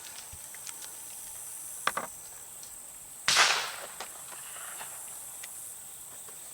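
A faint distant shotgun shot about two seconds in, then a brief rattling hiss a little over three seconds in: spent shotgun pellets from a far-off hunter's shot raining down nearby.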